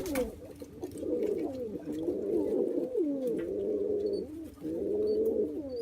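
Pet doves cooing, low gliding coos from more than one bird overlapping almost without a break. There is a sharp click right at the start.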